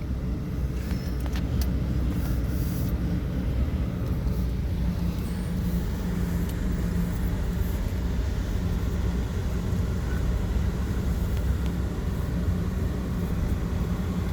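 Car running, heard from inside the cabin: a steady low engine and road rumble with a faint hum.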